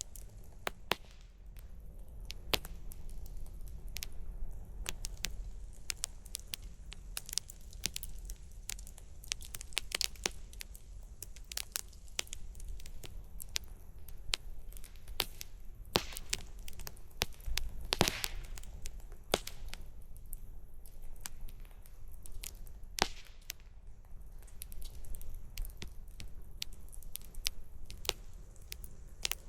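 Wood fire burning, crackling with irregular sharp pops and snaps, a few louder than the rest, over a low steady rumble.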